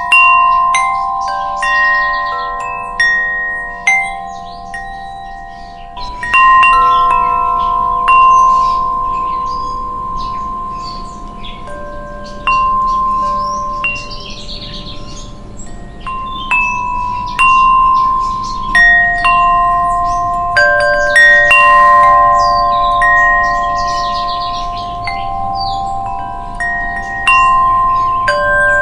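Wind chimes ringing, struck irregularly every second or two, several clear tones overlapping and ringing on for seconds.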